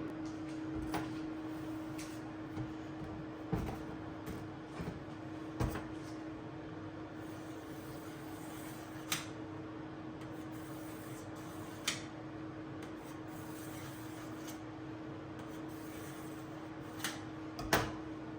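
Kitchen handling sounds: scattered light taps and knocks, about eight in all, the loudest near the end, with faint rubbing between them over a steady low hum.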